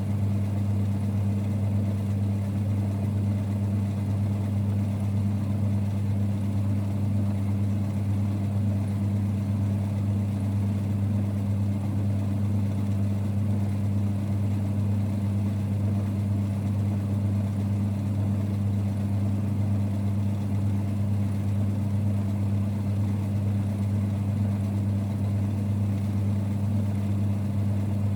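A 1946 Boxford lathe running steadily: a low, even hum with no change in pitch or level.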